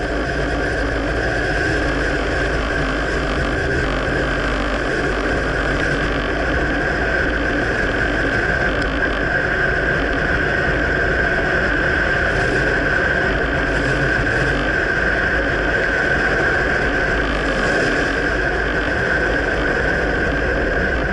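2009 Dodge Ram pickup being driven: steady engine and road noise throughout, with no separate clunk standing out clearly.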